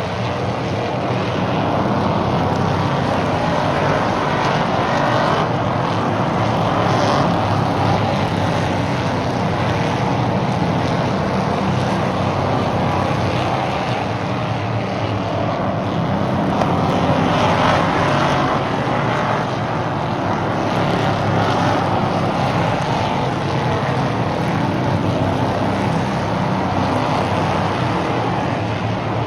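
Stock car engines racing around an oval track, a steady loud drone that swells as the field passes, most strongly about seven seconds in and again around seventeen seconds.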